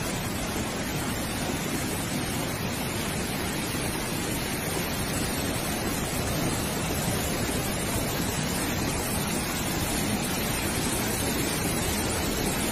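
Steady, even rush of water noise with no breaks or distinct events.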